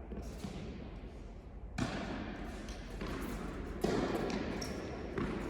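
Tennis ball being struck during a rally: three sharp hits about two seconds apart, each echoing around the indoor court.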